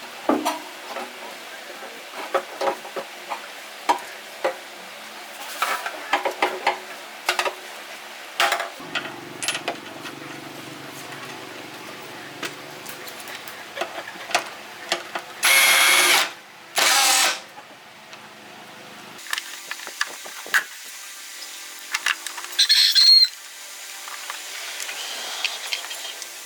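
Workshop tool work: scattered clicks and knocks of metal parts and tools, a low steady hum running through the middle, and two loud, short hissing blasts about halfway through, with another short burst of noise near the end.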